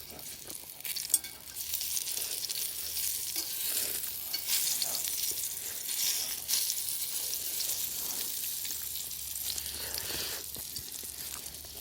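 Food sizzling as it fries over a fire pit: a steady high hiss with scattered pops, rising after the first second or so.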